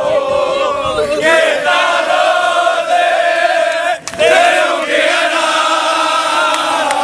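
A group of voices chanting together in long, drawn-out notes, like a sports cheer, with a brief break for breath about four seconds in.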